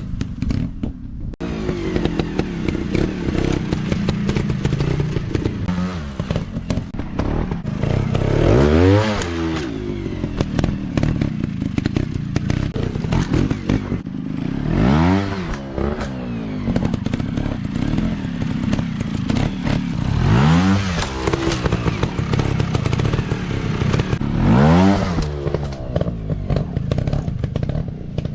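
Dirt bike engines running under load, revving up and dropping back four times in strong bursts, with steady clattering and knocking throughout.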